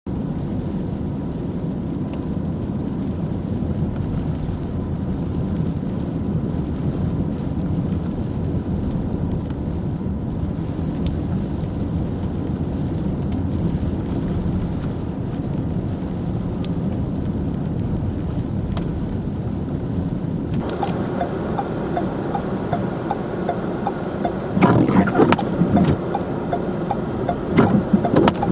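Steady rumble of a car driving on a snow-covered highway. From about two-thirds of the way through, a higher pitched drone joins in, with two louder surges near the end.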